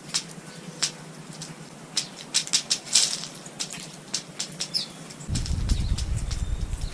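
Small birds at a feeder: irregular sharp taps of beaks pecking at seed, with wing flutters and one short chirp about two-thirds of the way through. A low rumble comes in about five seconds in.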